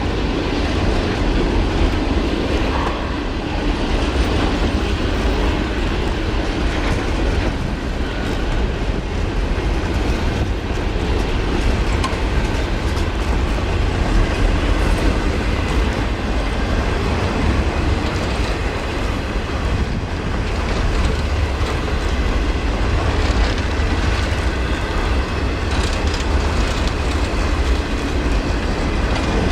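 A freight train rolling past at speed, its wheels running on the rails in a steady, loud rush of noise heaviest in the low end.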